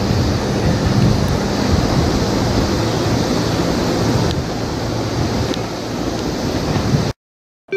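Super View Odoriko limited-express electric train (251 series) passing at about 106 km/h: a steady, loud rush of wheel and air noise that cuts off suddenly near the end.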